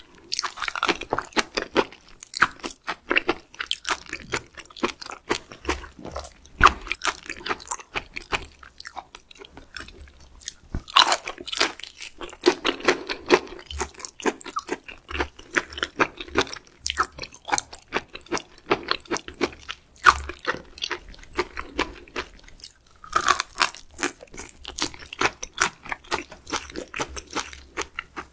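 Close-miked chewing of raw seafood: wet, crunchy bites and mouth sounds in quick, irregular strokes, a few louder than the rest.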